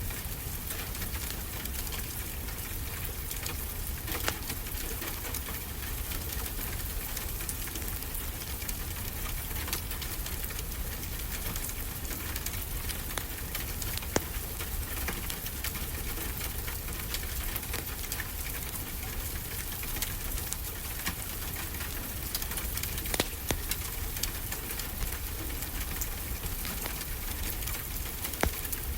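Steady rush of ocean waves mixed with a crackling wood fire, with a few sharp pops from the fire now and then.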